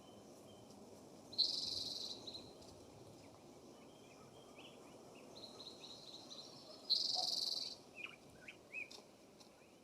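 Wild songbirds calling: two loud, buzzy, high calls, one about a second and a half in and another about seven seconds in, with fainter short chirps and whistled notes around them.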